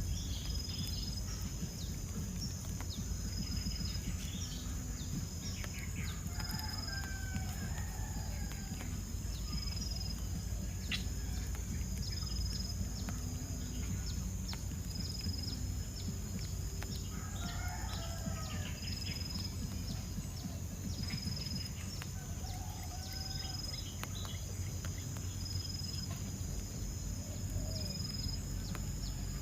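Outdoor bird calls in a few scattered short bursts, over a steady high-pitched insect buzz with a faint high note repeating about every two seconds, and a constant low rumble.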